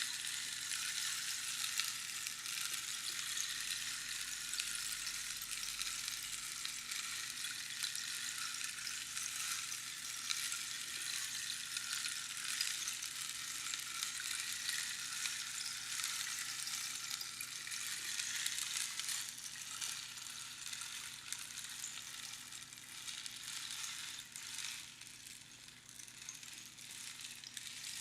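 Rainstick: pebbles or beans trickling down the tube past its inner pins, making a dense, rain-like hiss of many tiny ticks that thins and grows quieter over the last several seconds.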